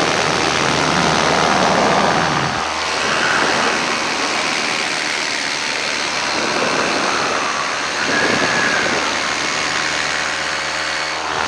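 Paramotor engine and propeller running at full power: a loud, steady drone mixed with rushing noise.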